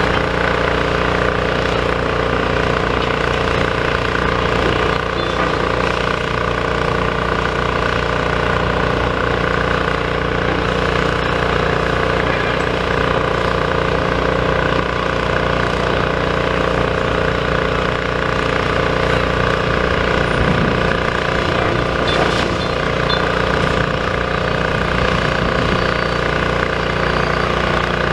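Demolition excavator's diesel engine running steadily under load.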